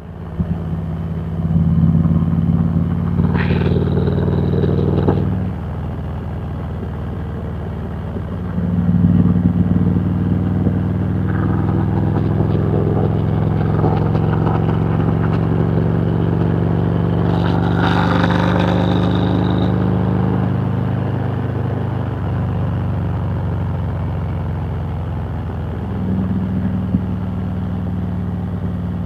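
Harley-Davidson Road Glide Special's V-twin engine running under way. The throttle eases off about five seconds in, comes back on a few seconds later, and the engine runs on steadily. A brief rush of noise comes about two-thirds through.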